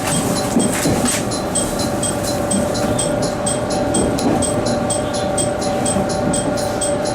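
Train sounds at a railway station: a steady two-note hum with a short, high ding repeating about three times a second.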